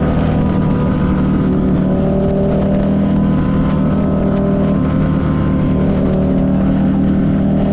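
Buell 1125CR's liquid-cooled 1125 cc V-twin engine running steadily and loudly, its pitch drifting only slightly.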